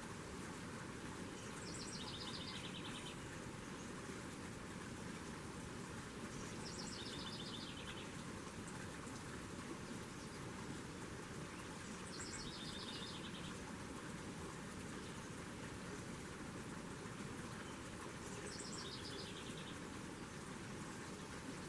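A songbird singing the same short song four times, about every five seconds; each song steps down in pitch through a few rapid trills. A steady hiss runs underneath.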